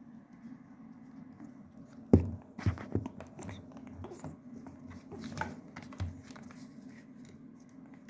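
African grey parrot biting and chewing at an object with its beak: a sharp knock about two seconds in, then scattered clicks and taps over a steady low hum.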